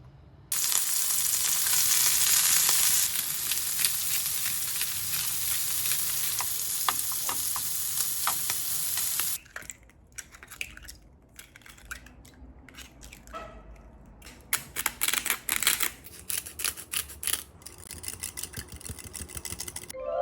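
Food frying and sizzling in a hot pan, starting suddenly about half a second in and cutting off after about nine seconds. Then comes a stretch of scattered crackles and clicks.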